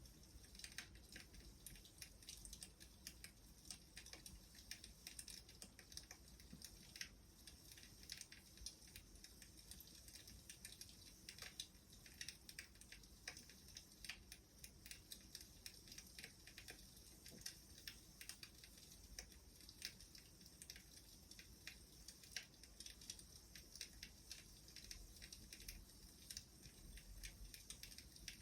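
Faint crackling of a wood fire: irregular small snaps and pops over a soft steady hiss.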